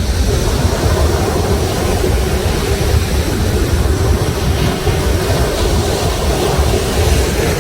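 Sea surf washing steadily onto the shore, with a deep low rumble under it.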